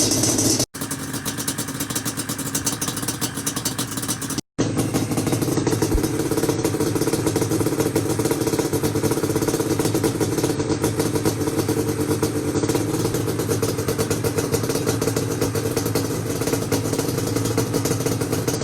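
Yamaha Banshee's two-stroke twin engine running steadily on expansion pipes, now that it starts again after its reed valves were cleaned. The owner suspects air leaks from old reed gaskets caused the no-start. The sound cuts out briefly twice in the first few seconds.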